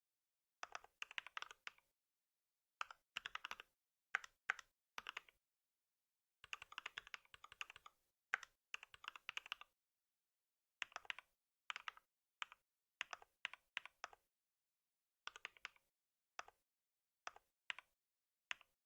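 Computer keyboard typing in many short bursts of rapid keystrokes, with brief pauses between the bursts.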